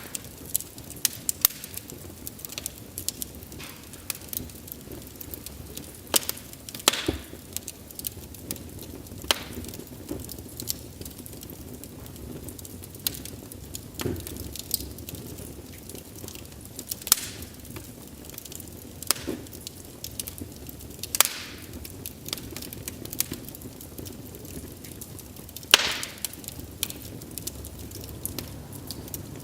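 Wood fire crackling, with irregular sharp pops and snaps over a low steady hiss of burning.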